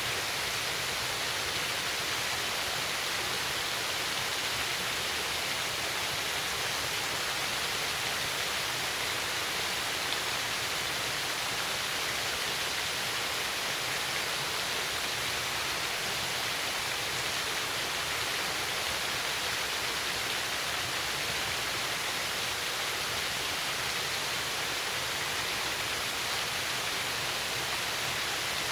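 Small waterfall cascading steadily over a rock ledge, a constant hiss of falling water that changes little in level throughout.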